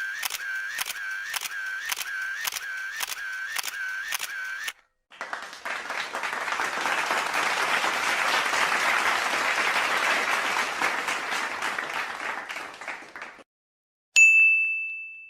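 A string of three stock sound effects. First comes a fast repeating electronic pulse, about three a second with a wavering tone, for about five seconds. Then a rushing noise rises and fades over about eight seconds, and near the end a single struck ding rings and dies away.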